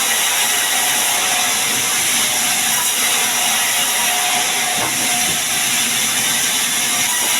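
Sawmill saw running steadily with a continuous high hiss, cutting sengon wood into beams.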